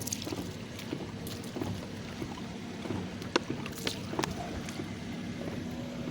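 Car engine running steadily, with a few sharp clicks about three and a half to four seconds in.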